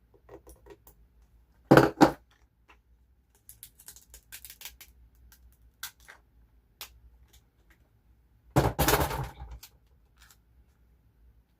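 Paper crafting handling noises: two sharp crinkles of paper or sticker sheet about two seconds in, a longer crackly rustle about nine seconds in, and small taps and clicks between.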